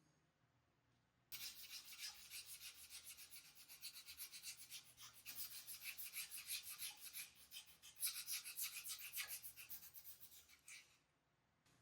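Rapid back-and-forth abrasive rubbing by hand, several strokes a second, typical of sanding, filing or scrubbing a hand-plane part. It starts just over a second in and stops shortly before the end.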